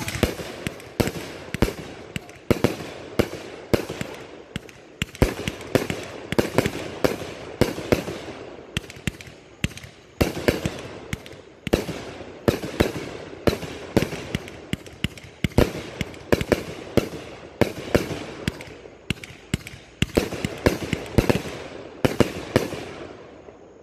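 A 231-shot compound cake of 1.4G consumer firework cakes (two Riakeo, three Pyro Demon) firing shot after shot. It makes a rapid, unbroken string of launch thumps and overhead bursts, about two to three a second.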